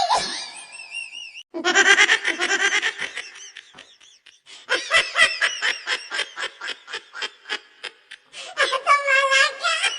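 Laughter: three bursts of rapid, pulsed ha-ha laughing, the longest in the middle.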